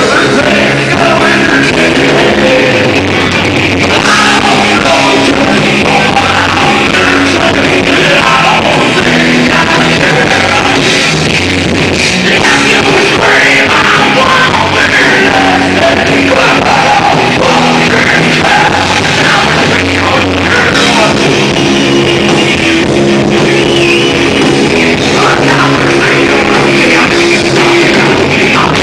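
Rock band playing loud live: electric guitars, bass and drums, with singing.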